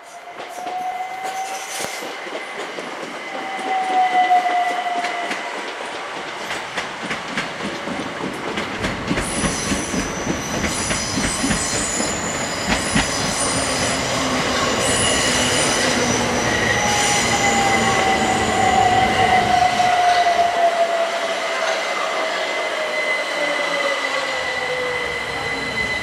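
Electric multiple-unit passenger trains running through a station: a steady rumble with a high, steady wheel squeal and rapid wheel clicks over rail joints. Twice a motor whine slowly falls in pitch, once early and again through the second half.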